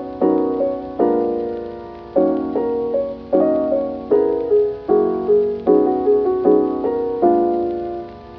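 Background music: a soft electric piano playing slow chords, struck about every half-second to second and fading between strikes.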